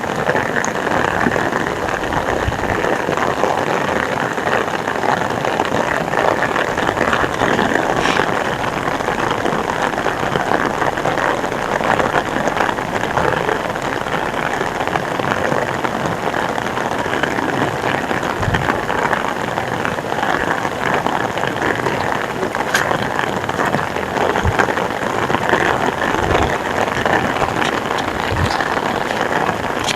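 Heavy rain falling steadily, a dense even hiss with scattered sharper drop hits throughout.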